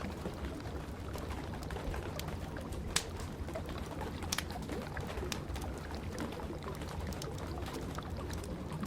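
Wood fire crackling with many small sharp pops, two louder ones about three and four and a half seconds in, over a steady hiss and low rumble of rain.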